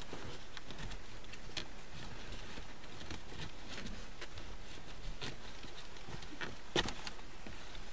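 Rain pattering steadily on the car roof, with a few faint rustles and clicks from the nylon seat cover and its straps being adjusted.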